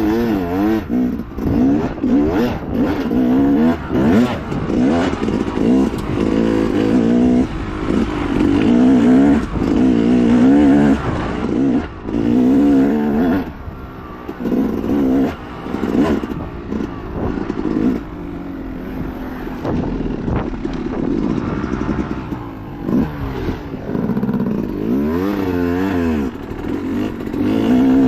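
Dirt bike engine revving up and down over and over as the throttle is opened and rolled off. Short knocks and clatter from the bike run through it.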